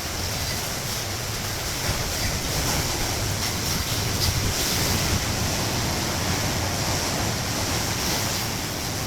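Hurricane-force wind rushing in a steady, dense noise that swells and eases slightly, with wind buffeting the microphone.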